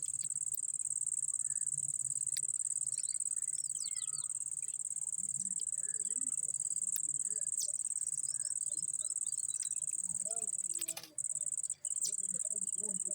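A steady, high-pitched insect trill that never changes in pitch, broken by two brief cut-outs near the end. Faint short chirps and squeaks, most likely from the parrot, sit beneath it.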